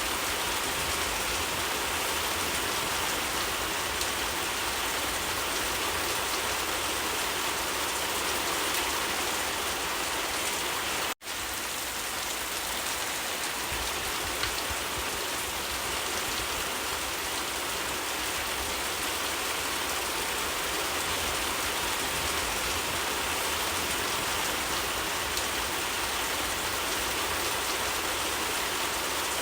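Steady rain falling in an even, dense hiss, cutting out for an instant about eleven seconds in.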